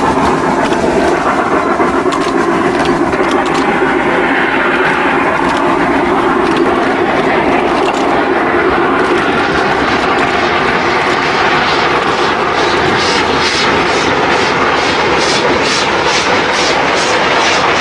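Steam locomotive working under steam, a loud steady rush of noise. From about halfway through, the exhaust beats come through clearly at roughly two to three a second.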